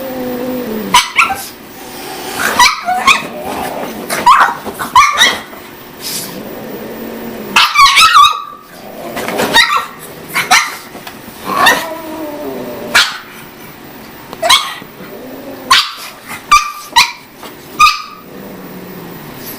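A dog barking over and over in short, sharp barks at an irregular pace.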